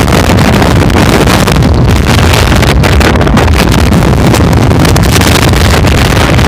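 Loud, distorted wind buffeting on the microphone over the low rumble of a vehicle driving off-road, steady throughout.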